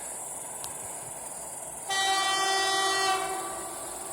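Horn of a 2M62 diesel locomotive giving one steady blast of about a second and a half, over the constant chirring of crickets.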